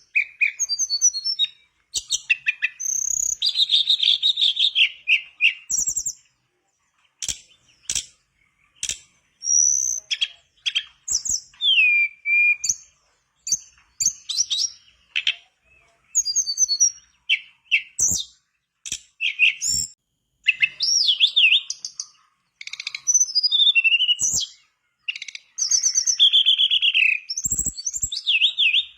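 Tledekan bakau songbird singing in full voice: a long run of varied, high-pitched phrases of fast trills, rising and falling whistles and chattering notes, broken by short pauses.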